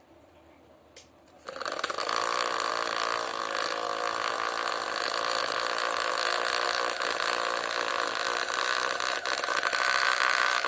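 The small electric motor of a homemade vacuum cleaner switches on about one and a half seconds in and runs at a steady buzzing hum. A faint click comes just before it starts.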